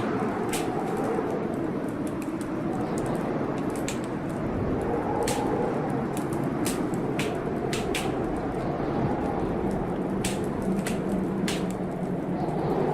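Wood fire crackling, with sharp irregular pops and snaps, over the steady rush of a storm with rain.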